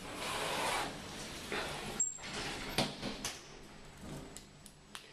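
Lift's sliding doors running shut, a rushing slide of under a second, followed by several sharp clicks and knocks as the lift sets off.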